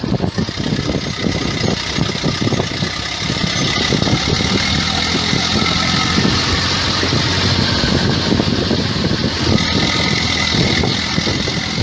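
A heavy machine's engine running steadily, with a dense mechanical rumble.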